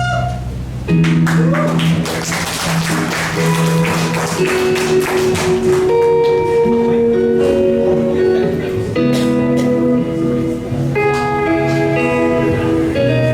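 Guitar playing the opening of a live song: strummed chords with sharp attacks that start about a second in, then held ringing notes.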